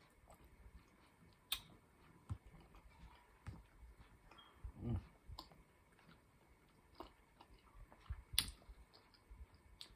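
Faint, close-up eating sounds: scattered sharp mouth clicks and lip smacks with soft chewing, a few louder clicks about a second and a half in and past eight seconds in.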